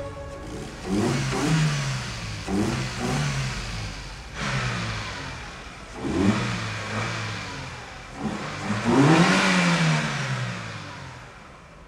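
Car engine being revved in about five separate blips, each rising and falling in pitch, the strongest near the end: the engine running again after its faulty crankshaft position sensor, which had made it run rough, was replaced.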